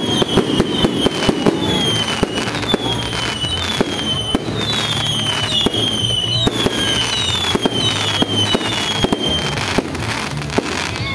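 Fireworks display: a dense run of bangs and crackles, with shrill whistles falling in pitch, about two a second.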